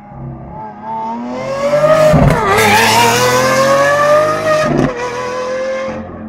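Lamborghini engine revving hard under acceleration, its pitch climbing, dipping briefly a little over two seconds in, then climbing again before easing off near the end.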